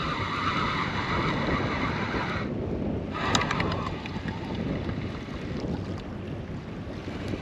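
Wind buffeting the microphone over water lapping against a small boat. A fishing reel whirs as line is wound in for about two and a half seconds, then again briefly a second later with a few clicks.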